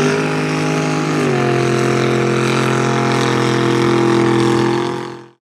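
Chevy square-body truck's engine held at high revs, its pitch mostly steady with a slight drop about a second in. The sound cuts off abruptly near the end.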